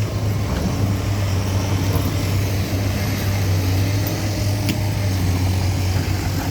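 A motor vehicle's engine running steadily, a continuous low hum with no change in pitch.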